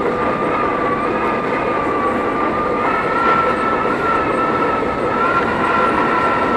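R32 subway train running on elevated track: a steady running noise with a high whine held throughout, stepping slightly higher in pitch about three seconds in.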